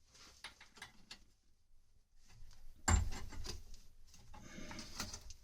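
Handling noises from test-fitting a water pipe: light clicks and rubbing, with one sharp knock about three seconds in and a short stretch of rubbing near the end.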